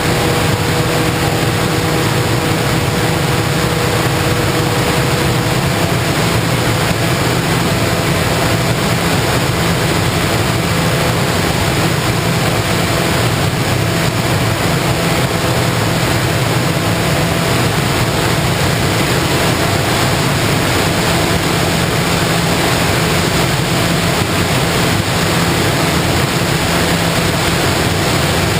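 Steady loud rushing noise of air over the microphone of an FPV model aircraft in flight, with the faint steady tones of its motor underneath.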